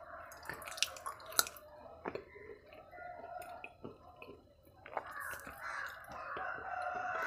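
A few sharp crunches of close-miked chewing on something hard in the first couple of seconds. From about five seconds in, a rooster crows in the background.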